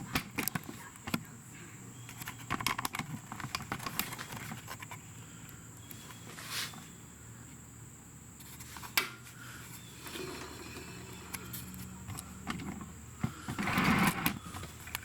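Scattered clicks, taps and light knocks of tools and parts being handled on a motorcycle in a garage, with one sharper knock about nine seconds in and a louder stretch of handling noise near the end.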